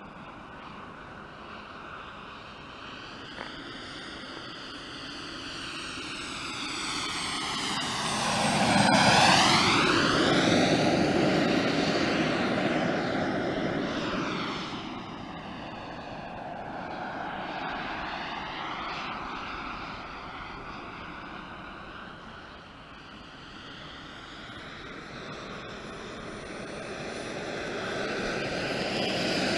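Radio-controlled Eurofighter model jet flying by, its engine note swelling to a loud pass about nine seconds in, fading as it flies off, and building again as it comes back near the end, with a sweeping whoosh as it passes.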